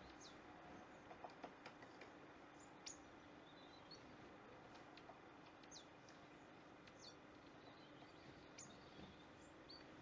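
Faint, scattered high bird chirps, each a quick downward sweep, over a steady background hiss and a faint low hum, with a few small clicks about a second in.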